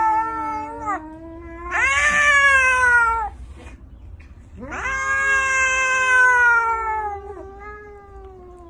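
A cat meowing in long, drawn-out calls that slide down in pitch toward their ends: one call ends about a second in, a shorter one follows, and the last and longest lasts about three seconds.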